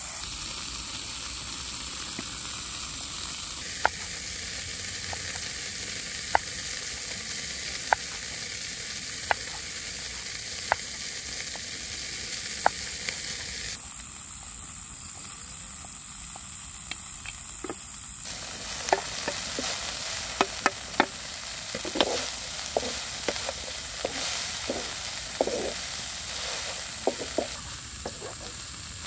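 Grasshoppers frying in a wok over a wood fire, sizzling steadily. Single sharp knocks come about every second and a half in the first half. In the second half a spatula scrapes and clatters against the pan as the grasshoppers are stirred.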